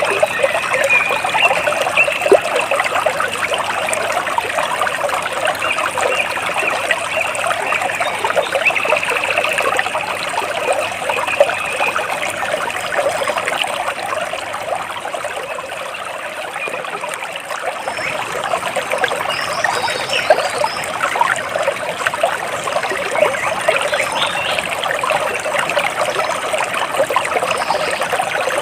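Water splashing and trickling steadily, with a few faint bird chirps over it.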